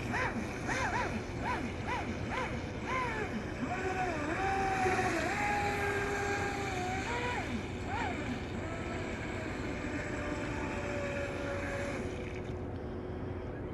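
Speedboat engine running, its pitch rising and falling, over a rush of wind and water; the rush drops away near the end.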